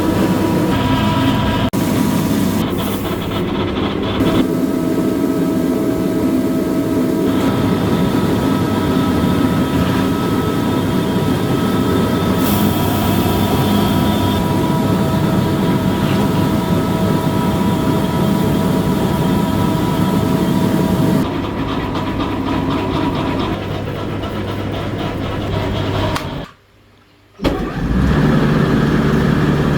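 A machine running steadily with a motor hum and a few held whining tones, changing abruptly several times and dropping out for about a second near the end.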